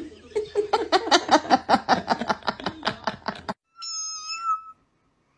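A cat meowing: a quick run of short, high calls for about three seconds, then one longer, held call near the end.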